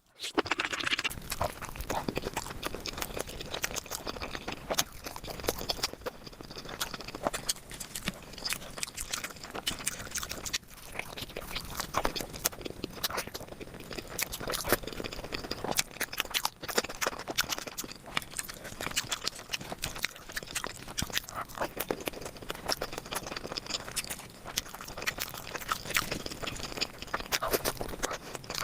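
Close-miked eating: a person chewing and biting curry and rice, with wet mouth smacks and irregular crunchy clicks.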